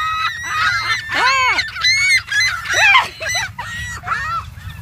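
A flock of gulls and geese calling over one another as they are fed: many short, loud honks and squawks overlapping, one after another without a break.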